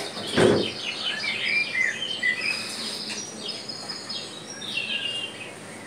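Many birds chirping in a busy chorus of short, high calls, with a single dull thump and rustle about half a second in.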